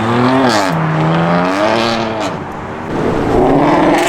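A car engine accelerating hard, its pitch climbing and then falling abruptly twice as it shifts up. After a short lull near the three-second mark, a louder engine comes in.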